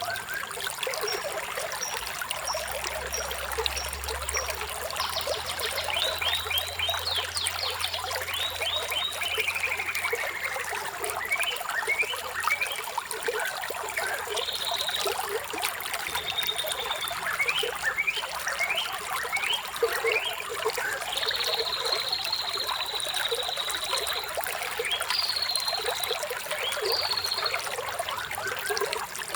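Running water trickling steadily, with several birds chirping over it in short rising calls and trills, including a long, even, high trill a little past the middle.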